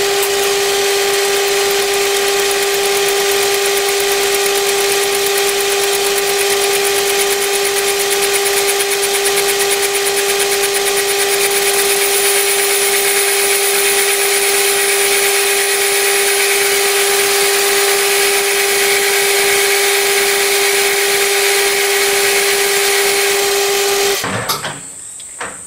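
Metal lathe running with a steady hum and hiss while a high-speed steel tool takes a light facing cut on the end of a cast iron steam engine cylinder casting. The lathe is switched off near the end and the sound stops abruptly.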